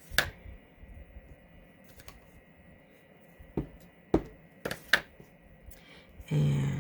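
Scattered light clicks and taps of rubber-stamping tools being handled and pressed onto cardstock, about half a dozen separate taps spread over several seconds.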